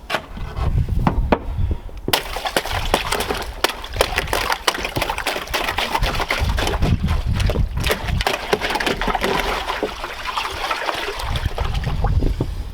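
Ice on the frozen-over water of a cold plunge tub being broken up and cleared, with many sharp cracks and clinks of ice chunks and sloshing water, starting about two seconds in.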